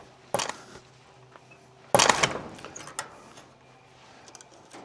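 Two sudden knocks, about a second and a half apart, the second louder with a short fading tail, then a few faint clicks near the end, over a faint steady hum.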